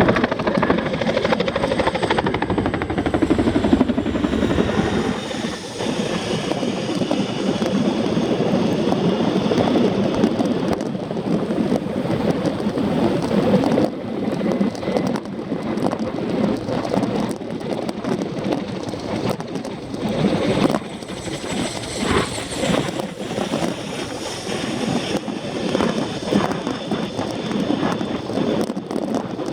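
Boeing CH-47 Chinook tandem-rotor helicopters flying, a continuous fast rotor beat with a faint high whine above it.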